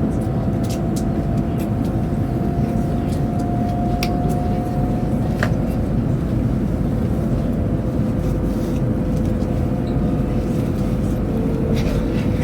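Chinese high-speed train running at speed, heard from inside the passenger car: a steady low rumble with a faint steady hum and a few light clicks.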